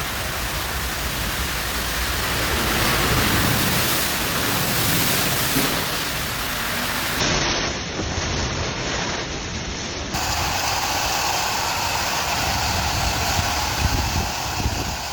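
Heavy storm rain and wind making a steady loud hiss on phone microphones, across separate clips that change abruptly about seven and ten seconds in.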